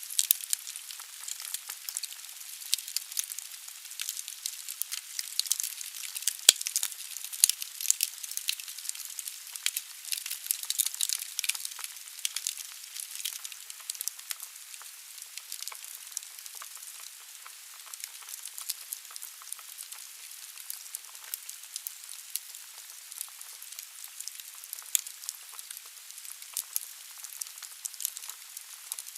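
Wood fire burning in a fireplace: logs crackling and popping over a steady hiss, with one louder crack about six and a half seconds in.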